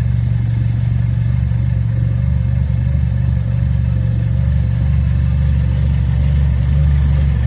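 A car engine running steadily with a low, even exhaust note and little change in pitch.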